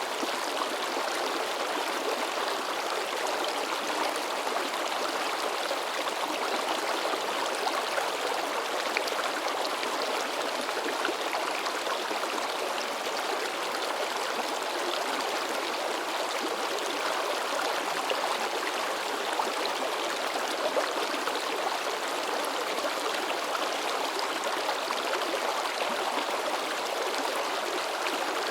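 Shallow river stream babbling and splashing over rocks, a steady rush of water with small irregular splashes.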